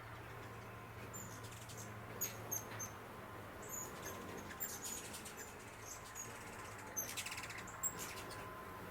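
Small birds giving scattered short, high-pitched chirps, with a quick rattling trill about seven seconds in, over a faint steady low hum.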